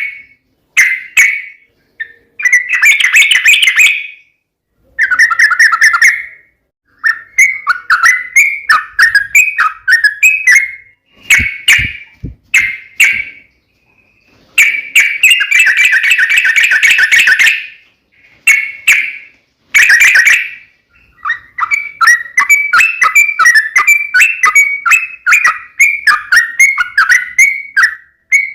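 Yellow-vented bulbul (trucukan) singing: loud, bubbly chattering phrases of a second or two separated by short pauses, running into a long, quick series of short notes in the last third.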